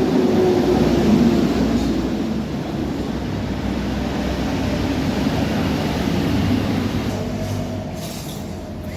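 Steady low rumble of a running engine, even throughout with no speech over it.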